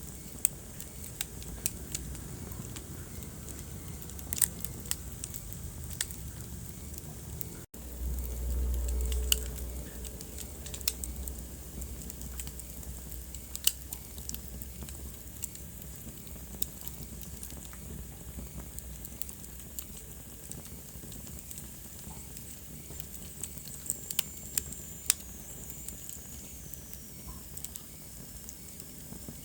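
Wood fire burning in a fireplace: irregular sharp pops and snaps over a steady low hiss. A little under eight seconds in, the sound cuts out for an instant and comes back with a low rumble for about two seconds.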